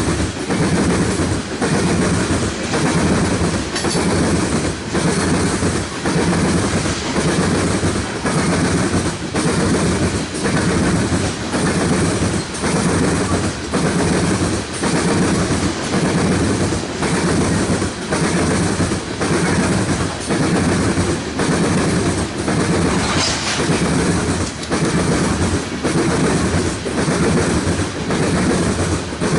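Freight train cars rolling past with a steady clatter of wheels over the rails, pulsing about once a second as each car's wheels go by. There is a brief high screech about three-quarters of the way through.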